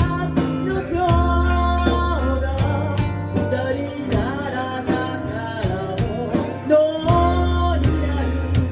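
A band playing a pop-rock song: bass, drums and guitar, with a melody line over them.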